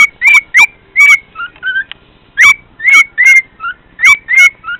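Cockatiel whistling loud, short, sharp notes that swoop up and down, in quick runs of three or four about every one and a half seconds, with softer lower chirps between the runs.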